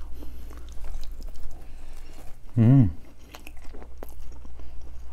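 Someone chewing and biting into a slice of pizza close to the microphone, with crunching of crust and small wet mouth clicks. About halfway through comes a brief hummed "mm" with a wavering pitch.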